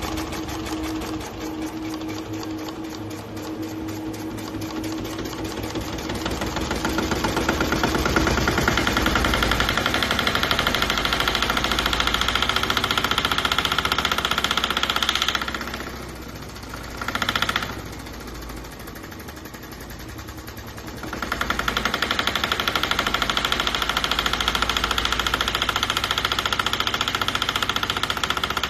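RETROL D16 scale model diesel engine running with a rapid, even knocking beat. It runs louder from about seven seconds in, drops back about halfway through with one short loud burst, then runs loud again.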